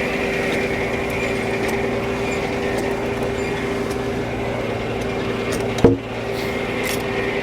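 Frick No. 1 sawmill running with a steady mechanical hum, with one sharp knock about six seconds in.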